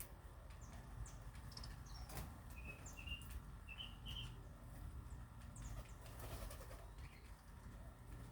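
Small birds chirping faintly in short notes, clustered a few seconds in, with scattered clicks and rustles over a low steady hum.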